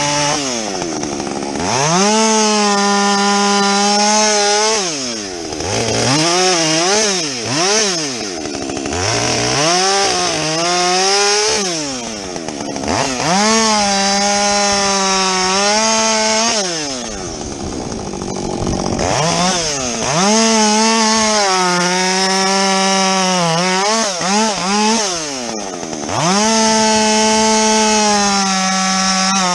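Husqvarna 562XP two-stroke chainsaw with a modified muffler, repeatedly opened to full throttle to cut through the logs and dropped back to a low idle between cuts, about five times. During each cut the engine pitch sags slightly under load.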